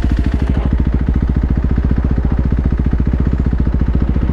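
Dirt bike engine idling steadily, an even putter of about a dozen beats a second.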